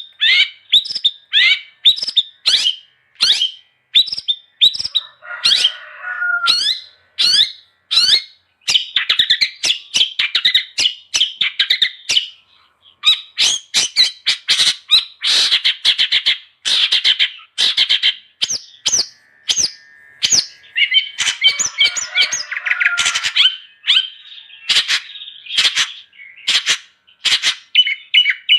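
Long-tailed shrike (cendet) singing vigorously: a fast, unbroken stream of sharp chattering and whistled notes. Twice, at about five seconds and again past twenty, the song drops into a harsher, lower rasping passage.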